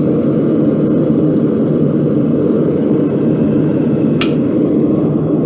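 A forge running steadily, a continuous low rushing noise, while a steel bar heats in it. One sharp metallic tick comes about four seconds in.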